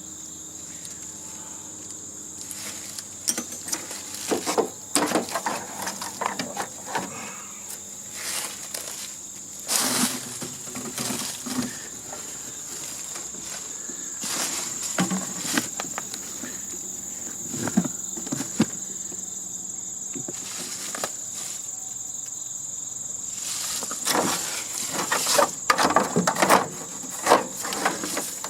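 Scattered clicks and knocks of hand work on the plastic and metal parts of a heating and air-conditioning unit, with a cluster of sharper knocks near the end. Under it runs a steady high-pitched drone.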